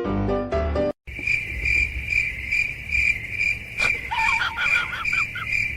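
Piano music that cuts off about a second in, followed by a cricket chirping steadily at about three chirps a second. A few short gliding calls sound over the chirping around the middle and again near the end.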